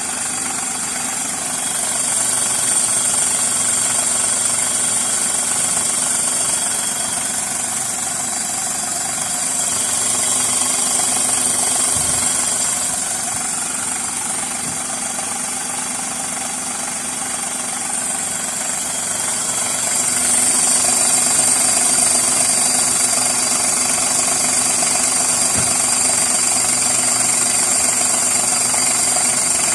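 Hyundai Eon's engine running steadily, its level swelling and easing slightly every several seconds.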